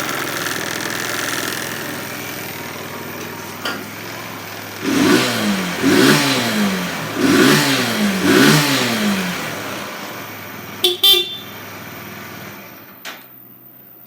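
Kawasaki Z125 PRO's 125 cc single-cylinder four-stroke engine idling, then blipped four times in quick succession, each rev rising and dropping back to idle. About eleven seconds in, the horn gives two short beeps.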